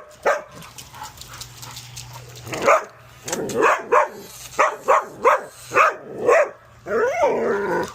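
A dog barking: a run of about eight short, sharp barks, then a longer bark that rises and falls in pitch near the end.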